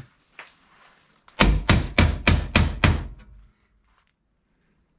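Six quick hammer blows on steel sheet, about three a second, knocking a steel piece tight into place so it won't move.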